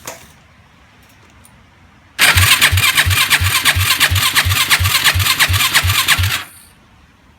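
2006 Yamaha YFZ 450's single-cylinder four-stroke engine being turned over by its electric starter for about four seconds, starting about two seconds in, with an even chug about three times a second, but it never catches. It turns over fine but won't start, which the owner takes for a fuel problem despite a cleaned carb.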